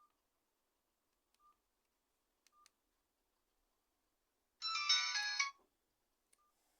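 Nokia N95 8GB mobile phone sounding from its loudspeaker: a few faint single key beeps, then about two-thirds in a one-second snatch of a ringtone melody that cuts off suddenly.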